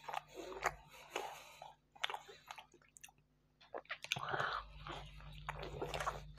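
Close-miked eating: wet chewing and biting of a mouthful of fried meat qalia with flatbread, with crunches and mouth clicks, pausing briefly about three seconds in before the chewing resumes.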